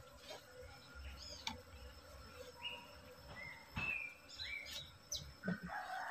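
Small birds chirping: many short, high calls that rise or fall, scattered throughout, with a sharp knock about four seconds in.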